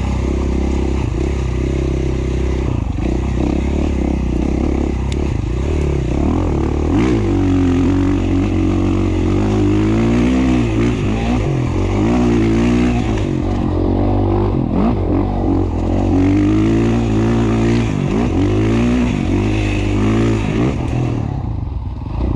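KTM 450 XC-F single-cylinder four-stroke dirt bike engine under way, its pitch rising and falling again and again as the throttle is opened and closed.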